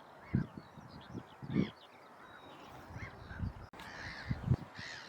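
Waterbirds calling: a few short arched calls, clearest about a second and a half in and again near the end, over several brief low thumps.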